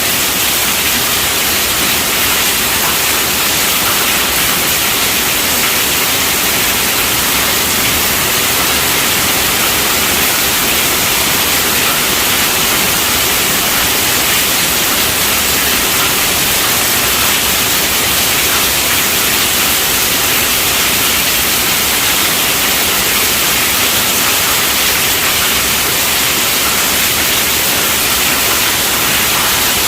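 Steady rainfall: an even, bright hiss at a constant level, with no separate drops or thunder standing out.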